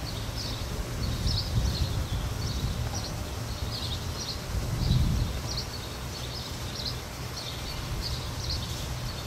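A bird chirping over and over, short high chirps coming about once or twice a second, over a steady low rumble that swells briefly about five seconds in.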